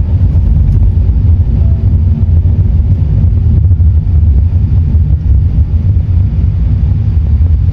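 Vehicle running, heard as a steady, loud, low rumble.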